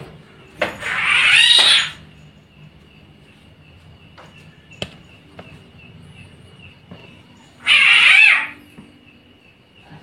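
Two loud, harsh animal calls, each about a second long, one near the start and one near the end, over a steady high thin tone.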